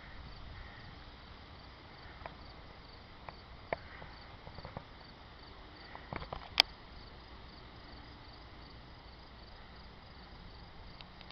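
Crickets chirping faintly in a steady, evenly repeating high pulse, with a few scattered light clicks, the sharpest about six and a half seconds in.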